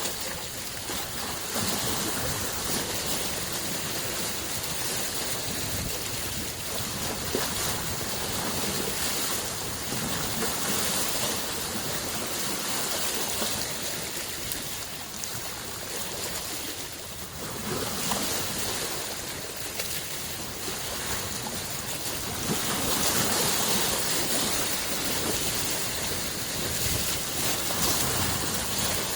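Small lake waves lapping continuously at the shore, a steady wash of water that swells and eases every few seconds.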